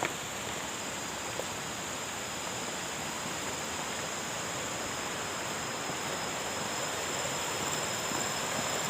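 Steady rushing of water, as from a waterfall or stream, with two faint steady high tones above it.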